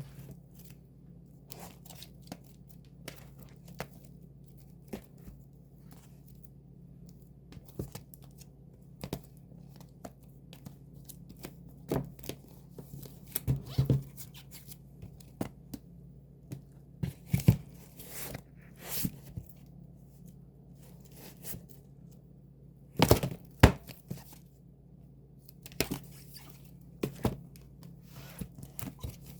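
Album packaging being opened and handled: irregular tearing, crinkling and sharp taps of plastic wrap, card and paper, loudest in short clusters, over a steady low hum.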